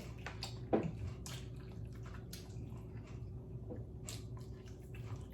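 Chewing and lip-smacking while eating barbecued pork ribs: a scatter of short, irregular wet smacks and clicks over a steady low hum.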